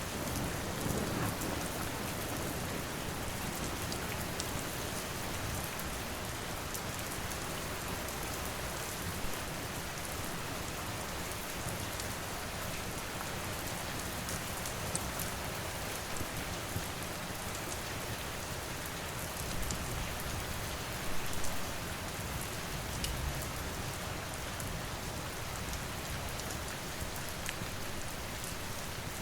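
Steady rain falling, an even hiss, with a few sharp pops and crackles from a wood fire and some soft low swells around the middle.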